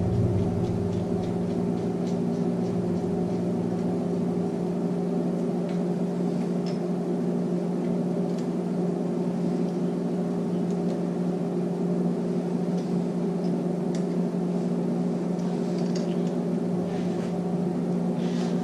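Electric machine motor humming steadily at an even pitch, with a few faint light clicks.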